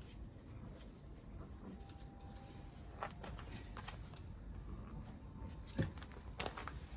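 Scooter engine parts and hand tools being handled during disassembly: a few scattered light clicks and knocks, the loudest about six seconds in, over a low steady hum.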